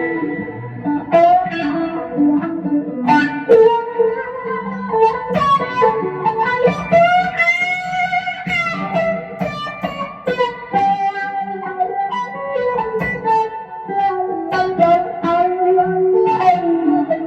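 Fender Stratocaster through a Fender Super Reverb amp and effects pedals, playing a blues-rock lead line of picked notes and string bends, with a held, wavering note about halfway through.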